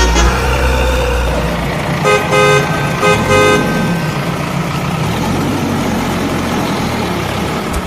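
A vehicle horn honks twice in short blasts, about two and three seconds in, over a steady running engine. Background music with a heavy bass stops shortly before the first honk.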